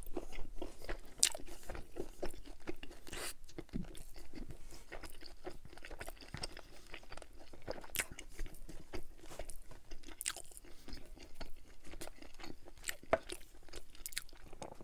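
Close-miked chewing of a mouthful of ribeye steak with a goat cheese and pecan crust: wet mouth sounds with many irregular small crunches from the pecans.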